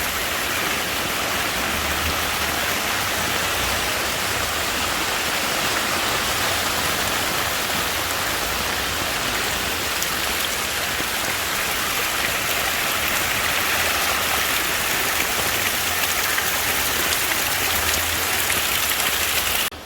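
Heavy tropical-storm rain pouring down steadily.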